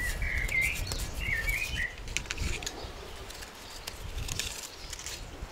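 A songbird chirping in quick warbling notes during the first two seconds, over outdoor background with scattered light clicks and taps.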